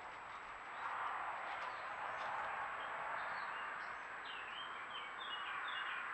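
A songbird calling over a steady background hiss, with a few scattered notes and then a quick run of short chirps about four to five seconds in.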